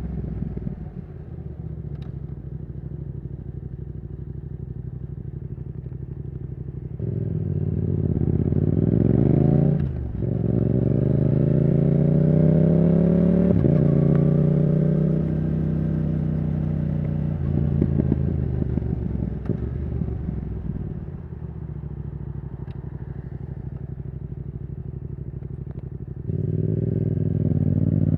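Yamaha R7's CP2 parallel-twin engine through a Yoshimura R77 exhaust, running steady at low revs, then revving up through the gears with quick shifts about ten and fourteen seconds in. It settles to a steady cruise, drops to a lower note around twenty-one seconds, and pulls harder again near the end.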